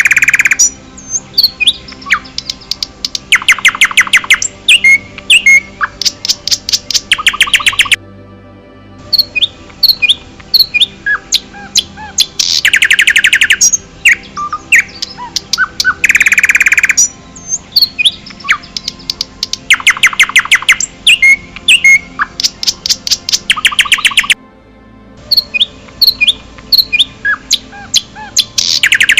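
Several forest birds chirping and calling. Rapid trills of quick repeated notes come every few seconds, with brief dips in the sound about eight seconds in and near the end.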